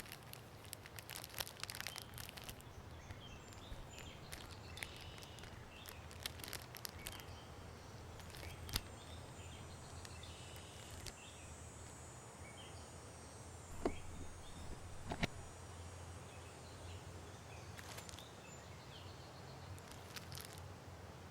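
Outdoor forest ambience with scattered crunches, rustles and sharp clicks, as of someone moving about or handling things, and faint bird calls. The sounds are quiet overall, with a few louder clicks in the middle and latter part.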